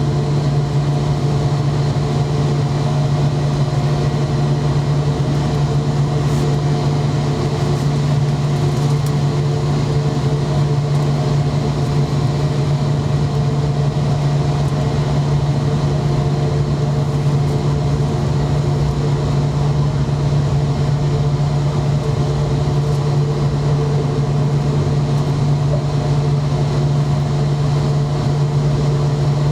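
Steady cabin hum inside a McDonnell Douglas MD-90 airliner on the ground before takeoff: a constant low drone with a few fainter steady higher tones, unchanging throughout.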